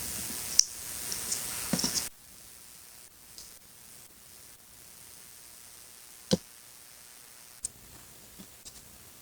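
Paper collage crafting sounds: about two seconds of rustling, scraping noise with small clicks, then a quiet stretch broken by a sharp tap about six seconds in and a lighter click a second later.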